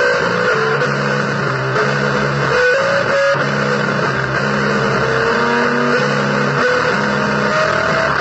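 Noisy blues-style music on electric guitar: low held notes repeating in blocks under a slow, wandering higher melody line, all buried in a constant thick hiss.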